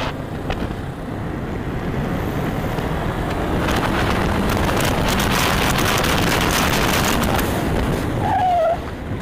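Motorcycle riding at speed, heard from the rider's camera: a rush of wind and road noise over the engine, building over the first two seconds, holding steady, then easing near the end.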